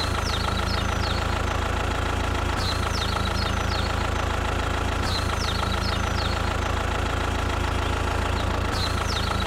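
Engine idling steadily with a constant low rumble. Small clusters of short, high, falling chirps come every two to three seconds over it.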